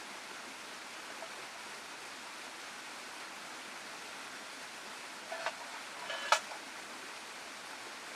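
Waterfall and stream water rushing steadily, with a few short clinks about five to six seconds in, the last one the loudest.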